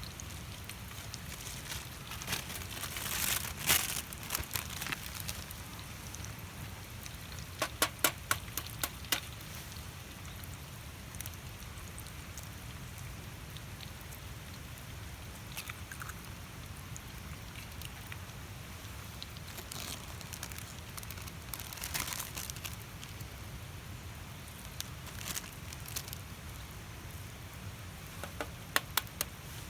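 Wood fire crackling, with sharp pops coming in small clusters every few seconds over a faint steady hiss.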